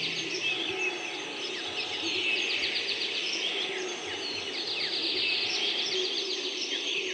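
Birdsong: many small birds chirping, with bursts of rapid high trills every couple of seconds over a steady low background hiss.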